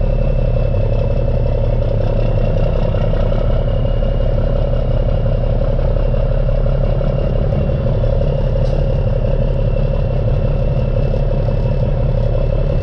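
Dump truck's N14 Cummins diesel engine running steadily under way, heard from inside the cab as a constant drone mixed with road noise.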